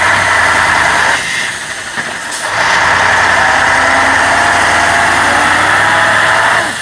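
Vehicle engine revving hard under load as it tries to drive out of deep mud. The engine eases off briefly about a second in, then is pushed again for several seconds before dropping near the end.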